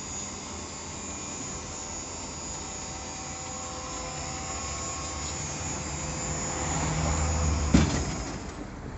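Steady motor vehicle engine and road noise, with a low rumble that grows louder toward the end, then one sharp knock.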